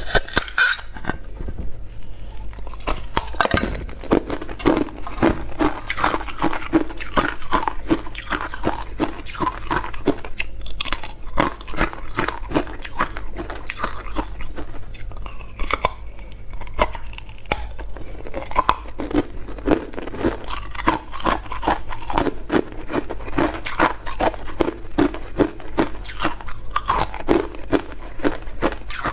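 A person biting and crunching hard clear ice close to the microphone, the ice cracking into sharp clicks, with runs of steady, rhythmic chewing.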